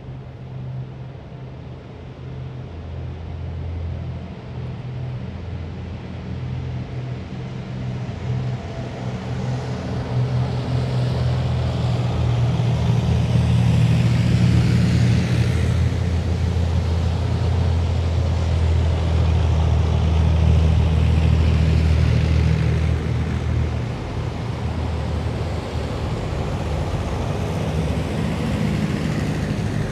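A column of heavy military vehicles passing, their engines a deep steady drone. It builds over the first ten seconds, is loudest through the middle with a rising and falling hiss of wheels or tracks on the road, and drops back a little about three-quarters of the way through as the next vehicles keep coming.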